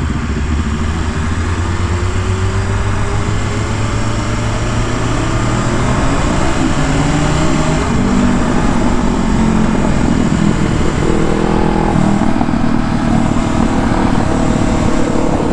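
Motorcycle engine running under way, its pitch rising and stepping as it accelerates through the gears, over steady rushing wind noise.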